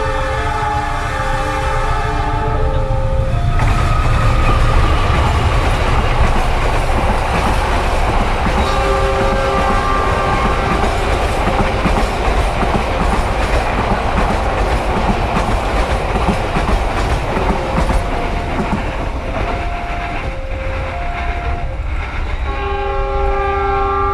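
Passenger train passing close by, its wheels clattering on the rails in a steady rushing noise. A horn sounds about nine seconds in and again near the end. A two-tone level-crossing warning signal alternates at the start and again late on.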